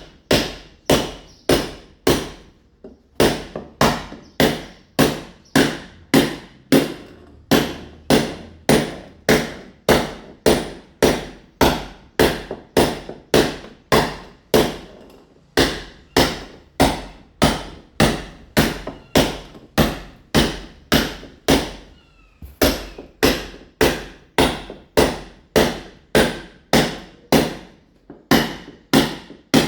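Mason's hammer (marreta) striking a wall over and over, picking the surface to key it for ceramic tile: sharp, evenly paced blows about two a second, with brief pauses about three seconds in and again about three-quarters through.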